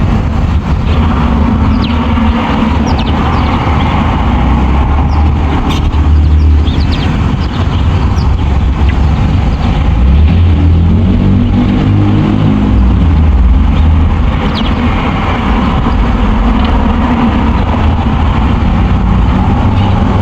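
Steady low rumble of a motor vehicle engine, with a pitched engine note rising and falling about halfway through. Faint, short bird chirps sound above it a few times.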